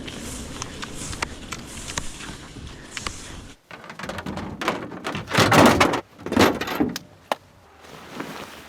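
A windshield frost guard being pulled off a snowy truck windshield and the truck door worked: two loud rustling scrapes about five and six and a half seconds in, then a sharp knock just after seven seconds.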